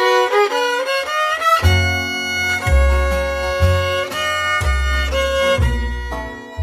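Instrumental intro of a gospel song: a fiddle plays the melody, and low bass notes join about a second and a half in.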